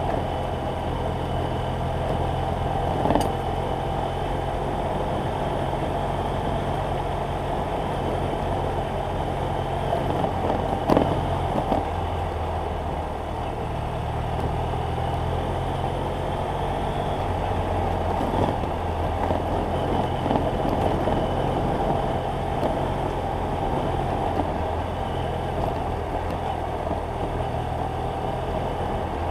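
BMW F800GS Adventure's parallel-twin engine running under way, a steady low hum that shifts in pitch a few times, with a few short sharp knocks.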